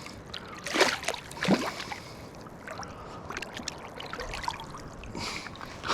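River water splashing and sloshing, with two louder splashes in the first two seconds, as a walleye is brought in at the angler's feet.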